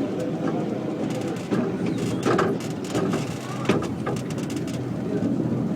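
Heritage train running along the track: a steady rumble with irregular clattering knocks from the wheels and running gear.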